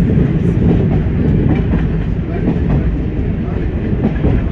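Class 104 diesel multiple unit running along the line, heard from inside the driving cab: a steady, loud rumble of engine and wheels on rail, with a few faint clicks over the track.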